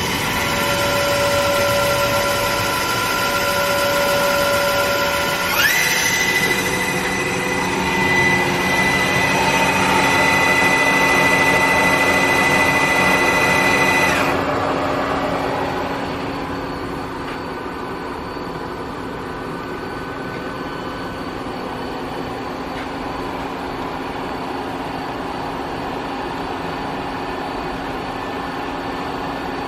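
Nexturn SA-20B Swiss-type CNC automatic lathe running, with a mechanical whine made of several tones. About six seconds in the whine glides up in pitch to a louder, higher run, which drops away about fourteen seconds in to a quieter steady hum.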